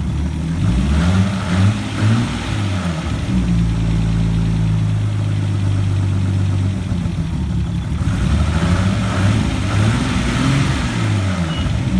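Nissan RB20DET turbocharged straight-six running and being revved: the pitch rises and falls within the first few seconds, holds steady for a few seconds, then rises and falls again near the end. The owner is chasing a knocking noise that shows up at about 2,000 rpm and is gone by 2,500 rpm, and it persists after swapping coils.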